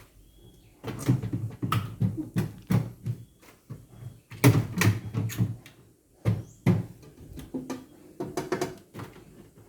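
A run of irregular knocks, thumps and clatters, with the loudest cluster about halfway through.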